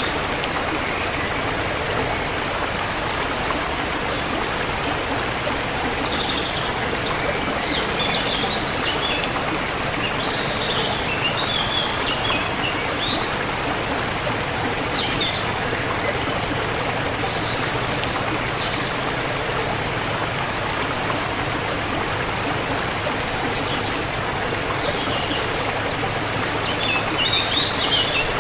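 River water flowing steadily, with birds chirping in short scattered bursts over it, busiest near the end.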